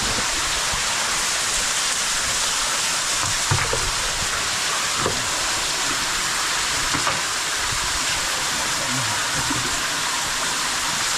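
Steady rushing of storm water pouring into a cave pit as a waterfall, with a few faint knocks.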